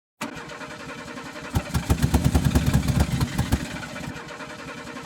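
Ford 400 V8 in a 1980 F-350 running roughly after sitting for years. About a second and a half in, a run of loud rapid pops lasts about two seconds, then the engine settles into a steadier, quieter idle.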